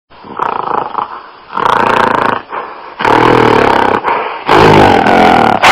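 A mammal calling: several loud calls in a row, each lasting about a second, with the loudest in the second half.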